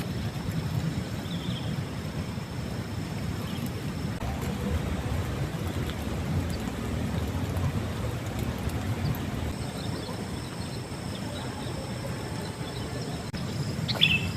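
Rainstorm: a steady low rumble of rain, with a faint high insect trill over it and a short chirp near the end.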